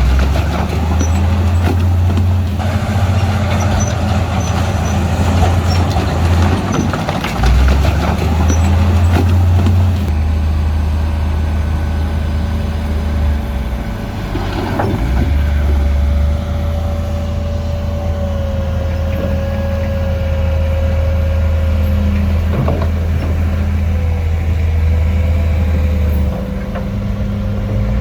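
Heavy diesel construction machinery running with a steady low engine drone, broken by a few clanks. A faint high whine in the second half drifts slightly in pitch.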